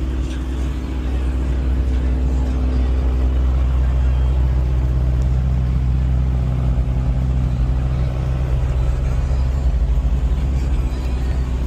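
A car engine running steadily with a deep, continuous rumble.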